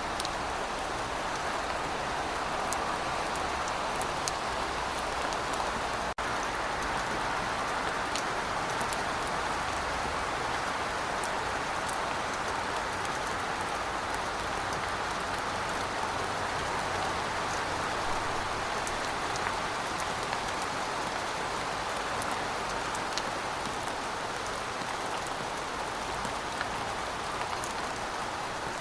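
Steady rain falling: an even hiss with scattered sharper drop ticks, broken by a split-second dropout about six seconds in.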